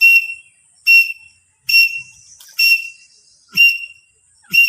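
Grey francolin (teetar) calling: a series of short, loud, high whistled notes repeated about once a second, six in all.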